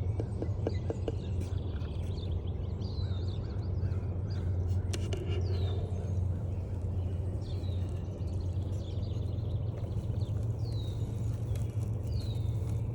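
Songbirds calling in spring woodland, one repeating a short downward-sliding high call every couple of seconds, over a steady low rumble, with a few soft clicks near the start.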